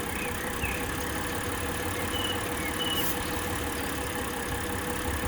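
Mitsubishi Pajero V6 engine idling while spray is put on the intake manifold. The idle shakes as the spray is drawn in, which is the sign of an intake manifold leak at that spot.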